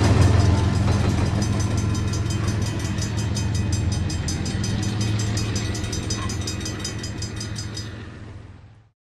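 A BNSF train passing at speed: a steady low rumble with a fast, even clicking of wheels over the rail joints. It fades gradually and then cuts off abruptly near the end.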